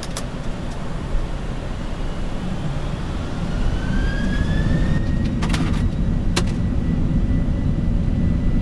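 Boeing 747's jet engines spooling up to takeoff thrust, heard from the cockpit: a low rumble that grows louder, with a whine that rises about three seconds in and settles into a steady high tone. A few short clicks sound over it.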